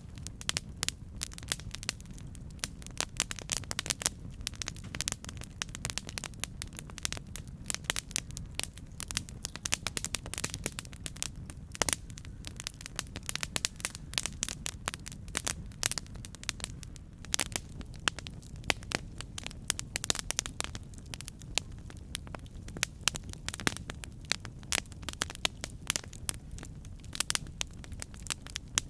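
Campfire burning with a steady low rumble of flames and frequent sharp, irregular crackles and pops from the wood.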